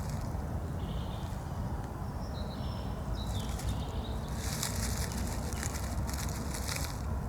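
Wind rumbling on the microphone, with a few faint high chirps in the first half, then a crackling rustle of dry leaves and twigs through the second half.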